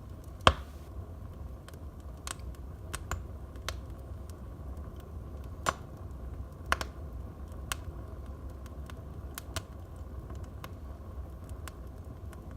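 Wood fire crackling in a fireplace: a steady low rumble of the flames with irregular sharp pops and snaps from the burning logs, the loudest pop about half a second in.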